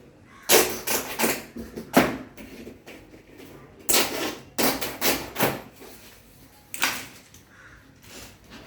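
A series of sharp knocks and clacks of hard objects being handled, irregular and unevenly spaced.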